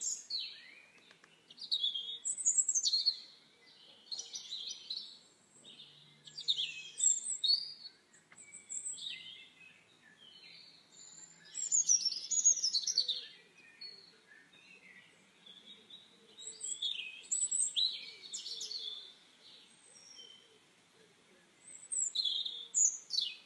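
Birds chirping and singing in clusters of quick, high, sweeping notes with short pauses between them.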